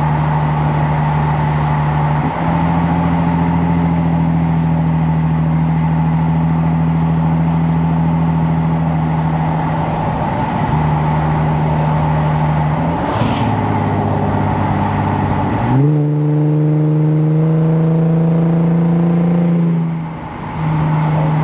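2015 Lexus RC 350's 3.5-litre V6 running through an aftermarket axle-back exhaust while the car is driven, a steady exhaust note that changes pitch a few times. About two-thirds of the way in, the engine revs up in a rising climb, then settles abruptly onto a new steady note. The level dips briefly near the end.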